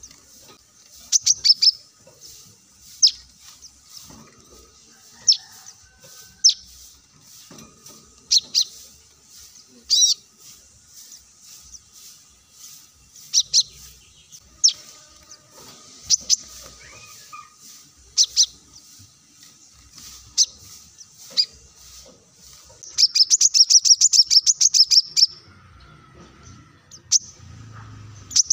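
Brown-throated sunbird (kolibri kelapa) calling: sharp, high chip notes, singly or in quick pairs every second or two, then a fast run of chips lasting about two seconds near the end.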